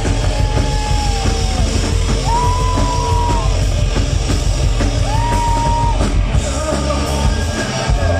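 A rock band playing loud, with a drum kit and a singer yelling three long held notes.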